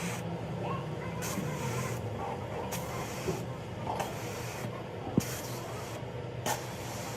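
A steady low mechanical hum with short bursts of hiss every second or so and a few sharp clicks.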